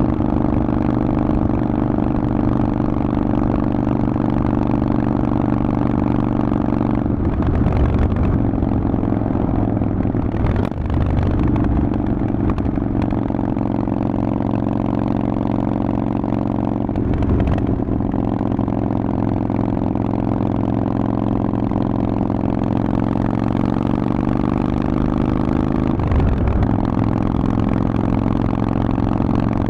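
Harley-Davidson Forty-Eight's air-cooled 1200 cc V-twin running through a Vance & Hines exhaust while being ridden. The engine note is steady and briefly broken four times, and creeps up slowly in pitch near the end.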